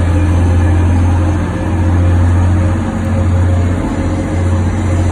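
Train idling at a station platform: a loud, steady low engine hum with a faint higher whine over it.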